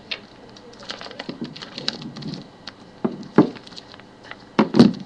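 A pet bird going at an iPod: a quick, irregular series of sharp taps and scuffles, with louder bursts about a second in, around three and a half seconds in and near the end.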